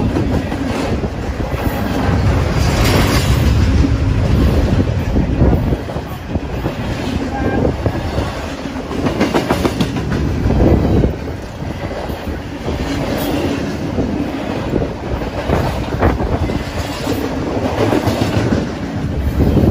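BNSF double-stack intermodal freight train passing at close range: a steady rumble of loaded container well cars, with the wheels clicking and knocking over the rail joints.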